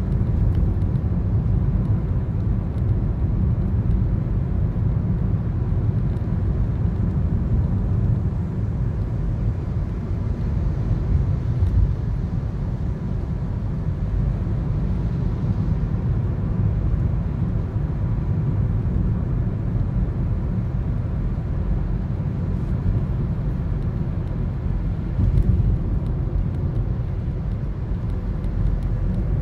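Steady low road and engine rumble inside the cabin of a moving Toyota Corolla, picked up by a dashcam.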